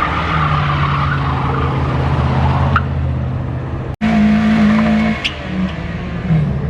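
Engines of modified cars running as they drive out. About four seconds in the sound cuts off abruptly and switches to another car's engine, whose pitch dips and climbs again near the end.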